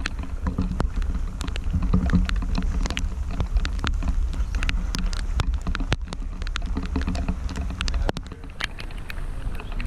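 Wind buffeting the microphone in a rainstorm as a low, steady rumble, with many scattered sharp ticks of raindrops striking the camera.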